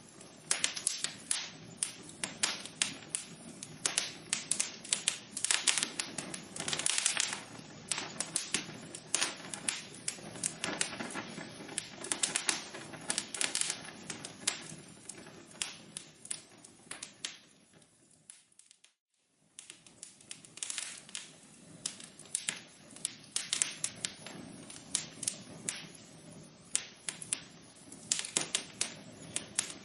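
Wood fire crackling, with dense, irregular pops and snaps over a soft hiss. About eighteen seconds in, it fades to silence for about a second, then the crackling comes straight back.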